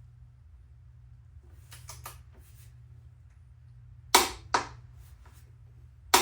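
Click-type torque wrench on a motorcycle's rear axle nut: a few light ticks, then two sharp clicks about four seconds in and two more near the end, the wrench breaking over at its set torque.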